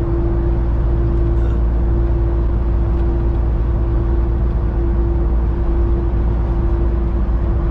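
Motor vehicle driving: a steady, loud low rumble of engine and road noise with a constant hum over it, unchanging throughout.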